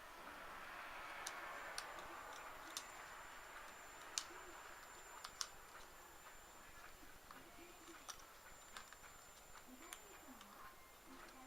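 Near silence: room tone with a few faint, sharp clicks scattered through it and a thin, high, steady whine from about two seconds in.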